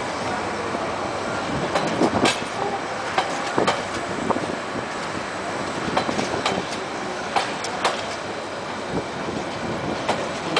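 Passenger coaches of the Mohanagar Provati intercity train rolling past: a steady rumble broken by irregular sharp clacks of the wheels over rail joints.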